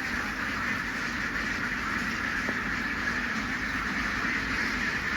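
Steady din of a large flock of ducks quacking together, blended into one even wash of sound.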